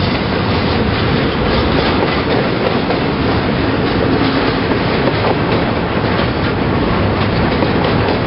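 Double-stack intermodal freight train rolling past close by: a loud, steady rumble of steel wheels on the rails, with scattered clicks.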